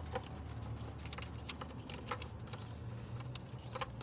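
Irregular light clicks and taps of plastic hose connectors and the new EVAP purge valve being handled and fitted back on, over a steady low hum.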